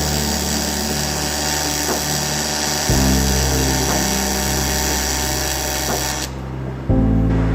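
AC TIG welding arc on aluminium, a steady buzzing hiss that cuts out about six seconds in as the arc is broken. Background music with sustained chords that change every few seconds plays underneath.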